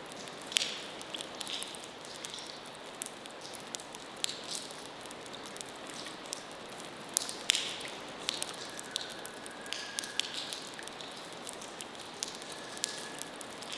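Abandoned-building ambience: an irregular patter of small sharp clicks and ticks over a steady hiss, with a few louder taps. A faint thin high tone sounds twice in the second half.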